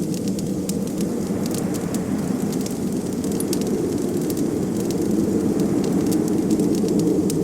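Wood fire crackling with many small, sharp snaps, over a steady low rush of wind.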